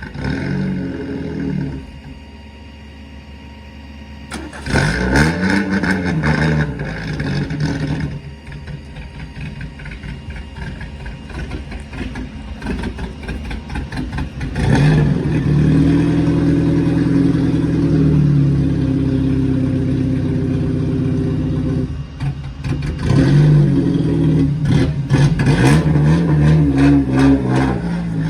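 Car engine running and being revved: the pitch rises and falls in several blips, and there is a steadier stretch at higher speed in the middle.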